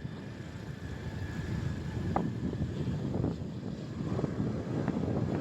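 Steady low rumble of a motorcycle on the move, wind and engine noise on the microphone, with a few brief faint high blips.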